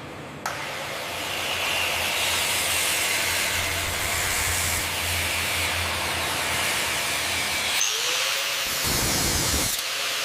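A power tool running steadily with a loud hiss. The sound changes abruptly twice near the end.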